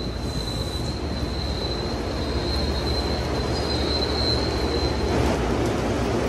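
MBTA commuter rail coaches rolling along the platform, with a low rumble from the wheels and a high steady wheel squeal that stops about five seconds in.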